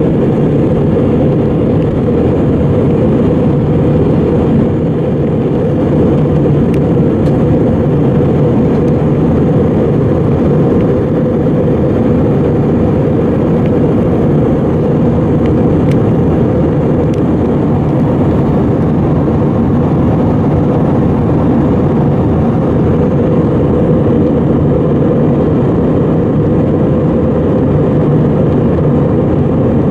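Steady jet engine and airflow noise inside the cabin of an Airbus A320 in flight, a loud, even rumble that stays the same throughout.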